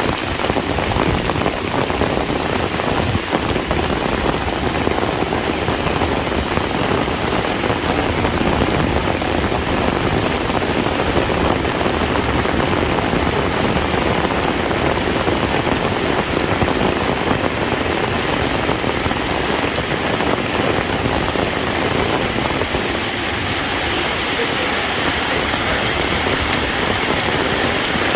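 Heavy rain pouring steadily, a dense hiss of drops hitting a surface with fine spatters throughout.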